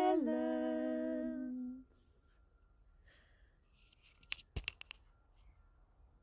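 A voice singing unaccompanied holds the closing note of the song, stepping down once and then stopping about two seconds in. A few faint clicks follow just after four seconds in.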